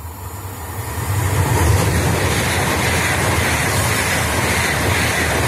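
High-speed electric train passing through a station without stopping. It makes a rushing noise over a low rumble that builds over the first second and a half, then holds steady and loud.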